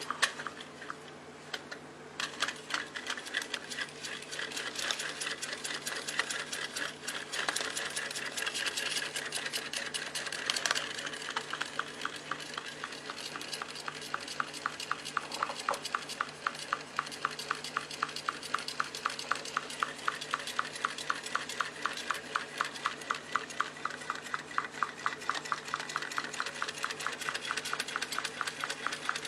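Small homemade thermal engine running, its mechanism clicking rapidly. The clicks start about two seconds in, ragged at first, then settle into an even rhythm of several a second from about halfway, and stop abruptly at the end.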